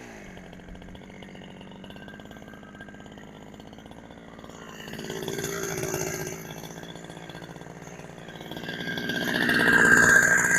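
Two-stroke chainsaw engine, a Chinese clone of the Husqvarna 372XP running on a genuine carburettor, idling steadily, with a slight pickup about halfway and a gradual rise in revs near the end.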